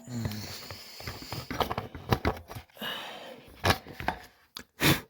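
Irregular clicks, taps and knocks of hand tools and parts being handled during reassembly, with two louder knocks, one about three and a half seconds in and one near the end.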